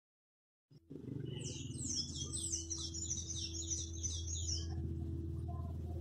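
Birds chirping in a rapid run of high notes over a steady low drone, all starting suddenly about a second in.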